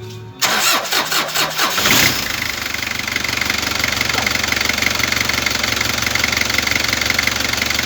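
Kia Bongo 3's diesel engine being cranked by its starter for about a second and a half, then catching and settling into a steady idle: the starter, wired direct to the battery, turns the engine over and it starts.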